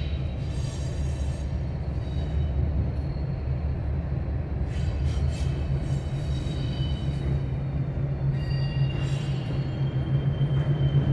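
Freight train going by: a steady low diesel locomotive drone, with thin high-pitched squeals coming and going above it.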